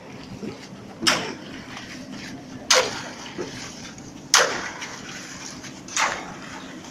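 Concrete pump pushing concrete through its delivery line: a sharp knock with each piston stroke, four times, about every second and a half, over a steady low background noise.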